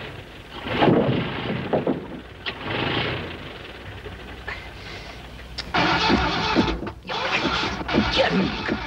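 Car engine starting and running. About six seconds in, a louder, busier layer of sound comes in.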